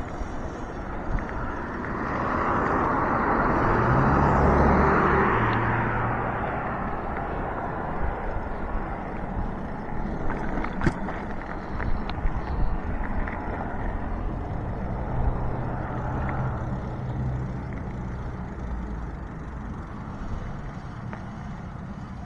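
Riding noise on an electric bike: steady wind and tyre noise that swells louder a few seconds in. A low steady hum comes in twice, and there are a few light clicks.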